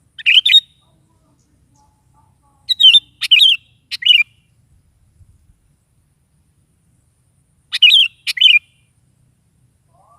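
Sooty-headed bulbul (kutilang) singing short, quick, bubbly phrases in three bouts: one right at the start, a run of three phrases around three to four seconds in, and two more around eight seconds in.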